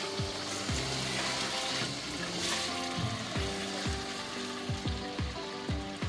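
Chicken pieces in a thick tomato sauce sizzling in a steel pot as they are stirred with a spoon, under background music with a drum beat.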